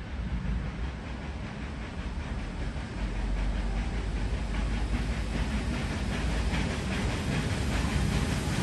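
A train approaching on the rails, its running noise growing steadily louder, with a faint regular wheel clatter coming in about halfway.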